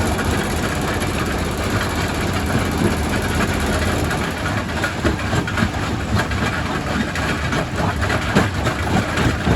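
Quarry primary rock crusher running with a steady low machine hum, overlaid with irregular knocks and cracks of rock being broken, more frequent in the second half.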